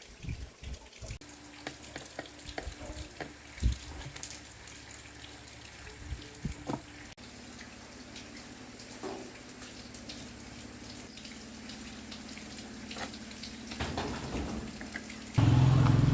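Scattered small clicks and taps with a faint steady hum, then near the end a motor starts abruptly and runs loud and steady.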